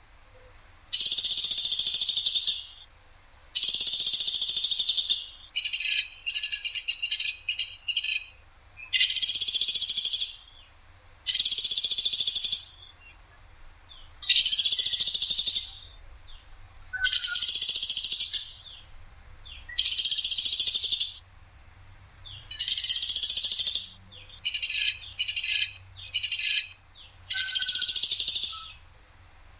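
Woodpecker giving harsh, sharp, high rattling calls, each about a second long, repeated every second or two. A couple of the calls break into quick stuttering bursts.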